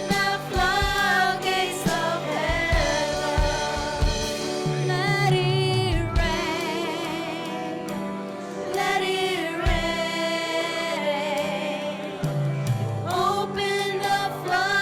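Live gospel worship music: a worship team singing sustained, wavering notes over a keyboard and band accompaniment.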